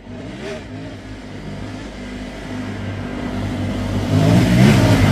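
Triumph Tiger 900 motorcycle's 888 cc three-cylinder engine running as the bike approaches, growing steadily louder and loudest near the end.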